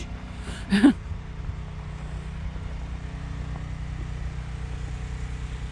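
A steady low engine hum, a motor running at an even idle, with a brief loud voice-like sound about a second in.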